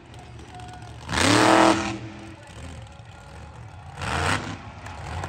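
Monster truck engine revving in short bursts over a low idle: one loud rev with a climbing pitch about a second in, and a smaller rev near the end.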